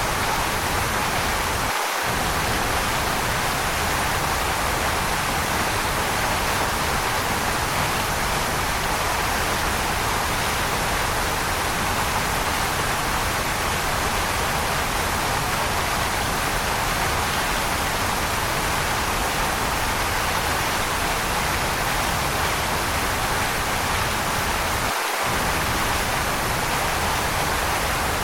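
Waterfall, a steady, even rush of falling water. The low rumble cuts out for a moment about two seconds in and again near the end.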